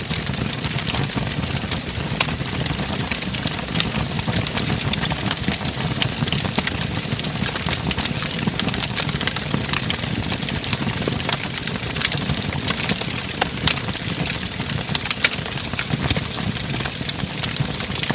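Wood fire crackling in a fireplace: frequent sharp pops and snaps over a steady low rumble of the burning flames, with one louder pop about fifteen seconds in.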